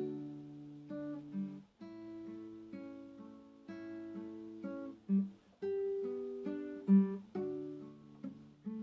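Acoustic guitar playing slow music: single plucked notes and strummed chords that ring out and fade, with short pauses between phrases.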